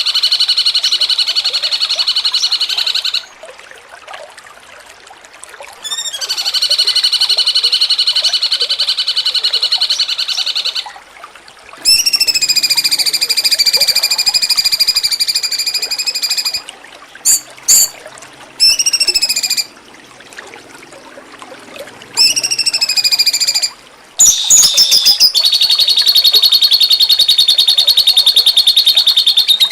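Cucak cungkok song from a tutoring (masteran) recording: a series of loud, rapid rattling trills, each held for one to five seconds with short gaps between them. Several phrases open with a quick rising note.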